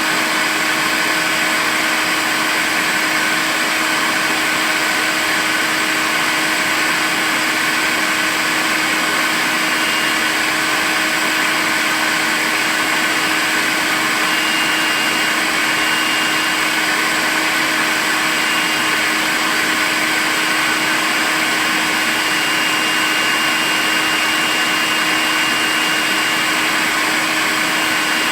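Makita cordless stick vacuum cleaner running continuously at a steady speed: a constant motor hum with an even whine and airflow hiss.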